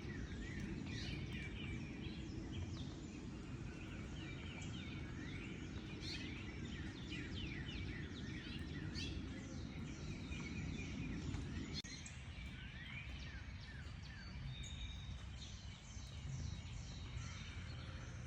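Several birds singing and chirping, with many quick high calls overlapping, over a low rumble that drops away about twelve seconds in.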